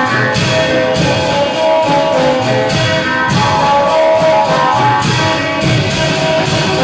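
Thai klong yao ensemble playing: long drums and cymbals beat a steady rhythm under a sustained melody line, in a reverberant hall.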